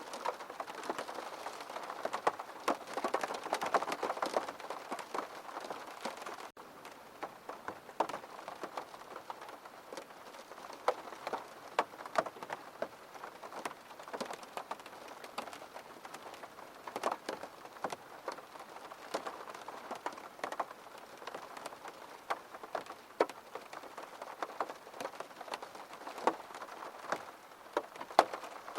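Steady rain falling, with many separate drops striking a hard surface in sharp ticks over the hiss. It is a little heavier in the first few seconds.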